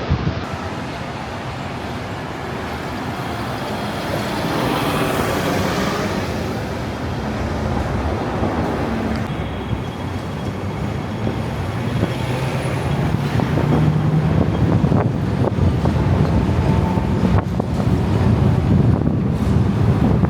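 Steady urban vehicle noise, a low rumble that grows louder over the second half, with a few sharp clicks or knocks near the end.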